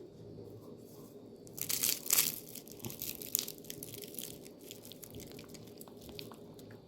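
Dry crunching and crackling, loudest for about a second near two seconds in, then lighter scattered crackles.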